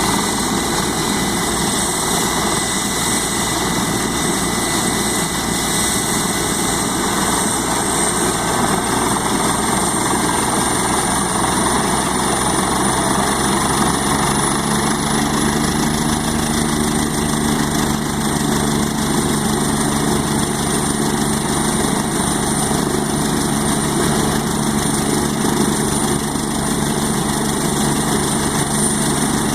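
Helicopter running steadily, a constant high turbine whine over engine and rotor noise; the whine creeps up a little in pitch and drops back about halfway through.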